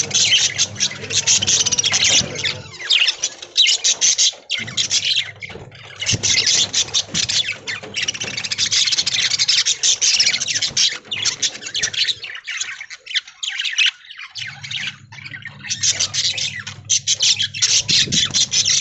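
A flock of budgerigars chattering and squawking densely, with fast overlapping chirps throughout. A low steady hum sits underneath during the first few seconds and again for the last few seconds.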